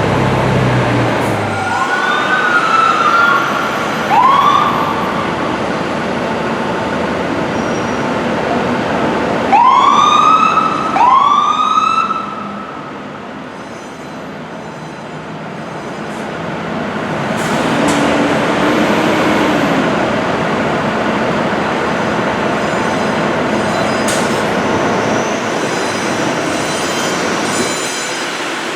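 Fire engine siren giving short rising-and-falling whoops, a few scattered over the first dozen seconds with two loud ones close together around ten seconds in, over steady street traffic noise.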